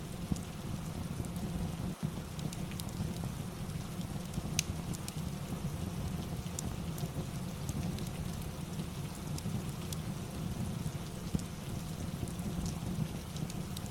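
Steady rain ambience with a low rumble underneath, dotted with sparse, irregular sharp crackles of a fireplace.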